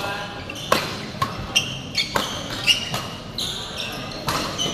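Sharp impacts from play on an indoor court, about six over a few seconds at an uneven pace, mixed with short high shoe squeaks on the floor.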